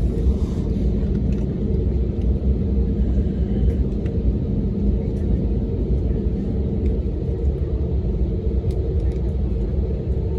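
Steady low rumble and hum of an airliner's engines heard inside the passenger cabin while the plane is on the ground before its takeoff run.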